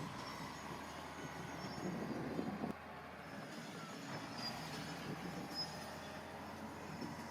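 Heavy earthmoving machinery at work: a diesel engine running with mechanical clatter. The sound drops abruptly a little under three seconds in, then carries on.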